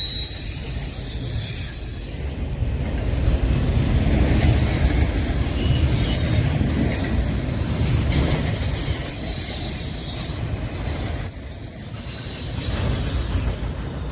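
Train cars rolling past with a steady low rumble, their wheels squealing in thin high tones that come and go.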